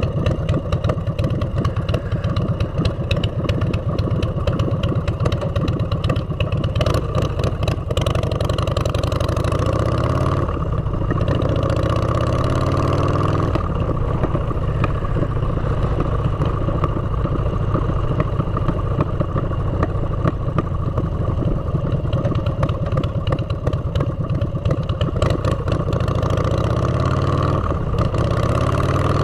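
Motorcycle with aftermarket exhaust pipes running under way, a steady loud exhaust note whose pitch rises and falls about ten seconds in and again near the end as the revs change.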